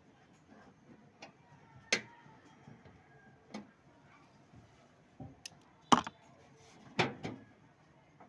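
A few separate sharp knocks and clicks a second or more apart, the loudest two about six and seven seconds in.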